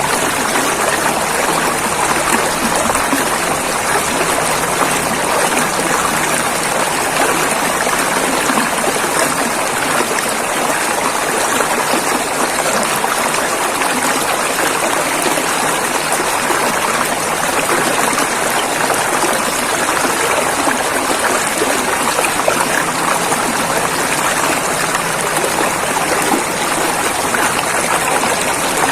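River water flowing and rushing over rocks in a steady, unbroken rush.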